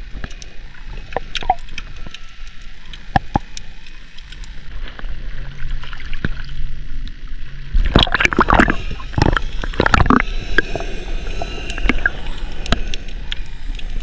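Water splashing and sloshing, with scattered sharp clicks throughout and a louder burst of splashing about eight seconds in.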